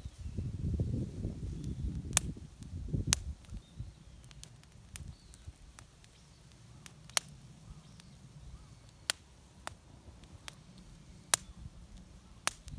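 Sharp isolated clicks or pops at irregular intervals, about a dozen in all, over low rumbling noise that dies away after about three seconds.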